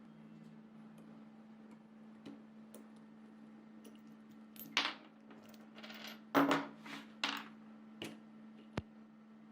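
Small metal parts clinking and clattering against a hard surface, several sharp clinks in the second half, over a steady low hum.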